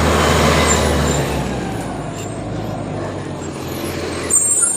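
Garbage truck engine running loud and low, easing off about a second in to a quieter run, with a short sharp noise near the end.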